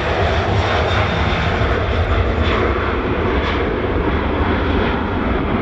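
Boeing 747's four jet engines at takeoff power as the airliner climbs out after departure: a loud, steady rumble.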